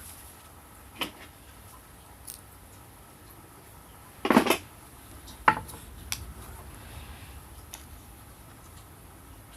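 Thin metal parts of a homemade wood stove being handled, giving a few scattered clinks and knocks. About four seconds in there is a short scraping clatter, and just after it a sharp knock that rings briefly.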